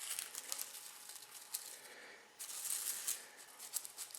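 Faint rustling and crackling of a moistened tobacco wrapper leaf being peeled off a cigar by hand, with small clicks. A louder stretch of rustling comes about two and a half seconds in.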